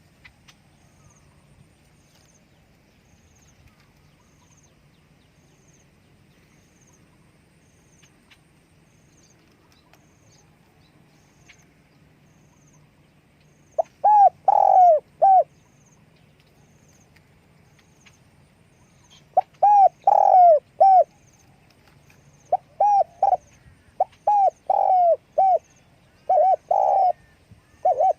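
Spotted dove cooing. After about fourteen seconds of near-quiet it gives a string of short phrases, each a few arched coos, repeated with brief pauses through the rest.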